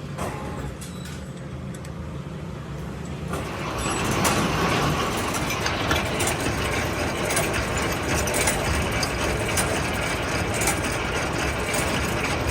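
Workshop machinery running with a steady low hum. About three seconds in, a much louder, harsh noise full of fine crackling starts and keeps going, the sound of a machine working metal.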